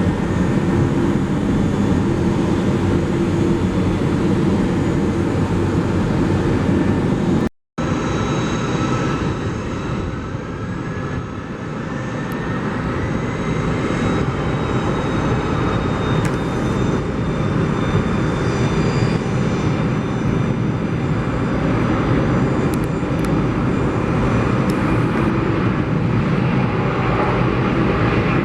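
Airliner engines running with a steady roar, broken by a short cut about a third of the way in; afterwards a thin engine whine rises in pitch over several seconds.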